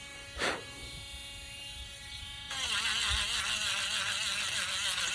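Small handheld electric sander whining steadily, then about two and a half seconds in it gets louder and rougher, its pitch wavering as it is worked against the piece.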